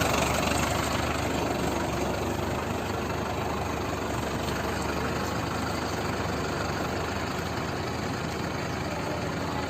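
Tractor diesel engine running steadily, easing off slightly at the start and then holding an even idle.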